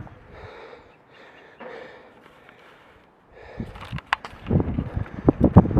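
A person breathing hard after a steep climb, with a few slow, noisy breaths. About three seconds in come louder rustling and knocks, like handling or footsteps.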